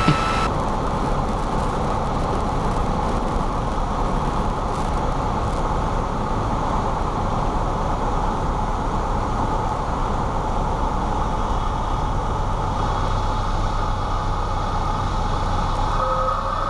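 Steady cabin noise inside a Cessna 172: the engine running at low power with airflow rumble, with a brief click at the start and a low steady hum that becomes clearer in the last few seconds.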